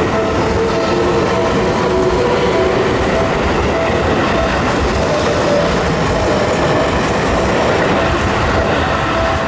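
Seibu Shinjuku Line electric commuter train passing over a level crossing, a loud, steady rush of wheels running on the rails. The crossing's warning bell keeps ringing over it in a repeating tone.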